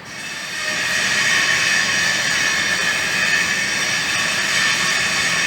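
Workshop machinery running steadily, a loud even hiss with a high whine over it, fading in over the first second.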